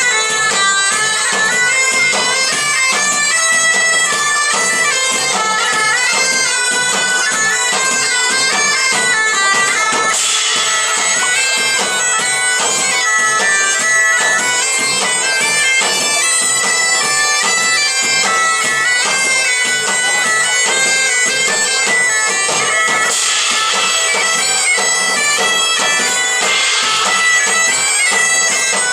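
A medieval folk band playing live: bagpipes play a stepping melody over a steady drone, with drums beating underneath.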